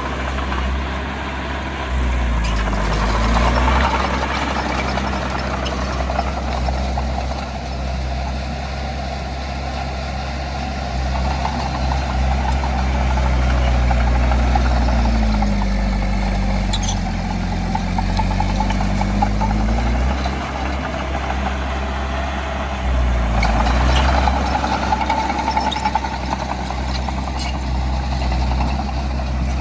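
Heavy diesel engine of earthmoving equipment working, its pitch and loudness rising and falling several times as the load changes.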